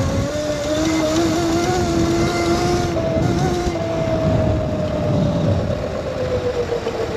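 Electric motor whine of a modded Razor MX650 electric dirt bike under way, its pitch rising slightly in the first seconds, holding, then slowly falling as the bike eases off. A steady rush of wind and snow-covered road noise runs underneath.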